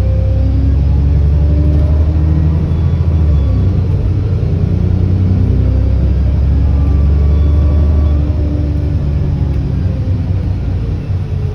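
ADL Enviro400 double-decker bus engine pulling under way, heard from on board, with a deep rumble and a pitch that rises and falls as it changes gear. A faint high turbo whine rides over it. The engine eases off slightly near the end.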